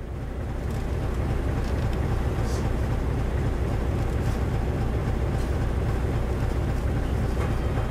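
Isuzu LV city bus's 8PE1-N V8 diesel engine idling steadily, heard from inside the passenger cabin, with a few faint ticks.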